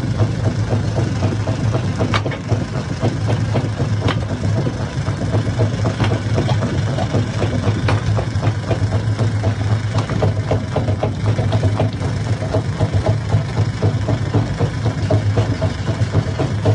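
Hammer-type stone crusher running steadily with a deep, even hum, with frequent sharp knocks of rock being struck throughout.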